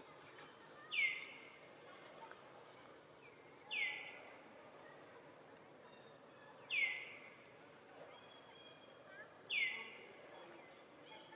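A bird calling over and over: a short, high whistled note that falls sharply in pitch, repeated evenly about every three seconds.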